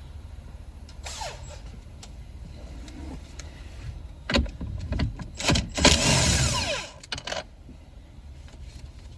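Metal hand tools clattering and scraping, with a dense run of clicks and scrapes for about three seconds midway, over a steady low hum.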